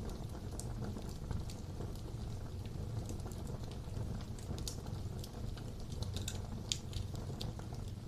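Wood fire burning in a fireplace: a steady low rumble of flames with scattered sharp crackles and pops from the burning logs, one louder pop about two thirds of the way in.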